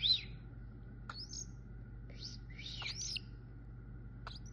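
A baby cockatiel gives about five short, high chirps, most of them rising whistled notes, with a small cluster about three seconds in. These are the calls of a young cockatiel starting to find its voice.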